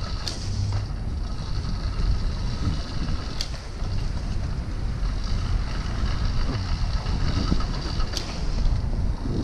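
Riding noise from a motorized 20-inch mini bike: a steady low rumble with mechanical rattling, and three sharp clicks, one just after the start, one about three and a half seconds in and one near the end.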